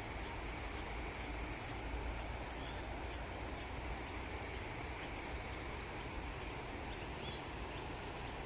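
Steady rushing of a flooded creek, with short high chirps from a small animal repeating about twice a second over it.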